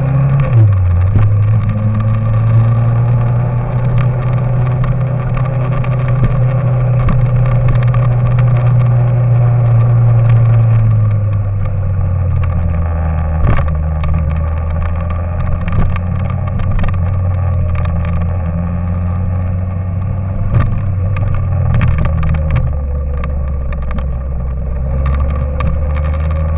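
A motor engine running at a steady speed, a low drone whose pitch drops in a step just after the start and again about eleven seconds in, with scattered clicks.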